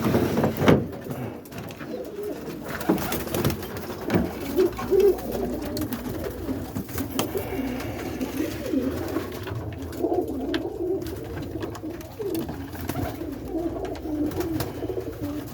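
Roller pigeons cooing continuously in the loft, several birds overlapping, with a few scattered clicks and knocks.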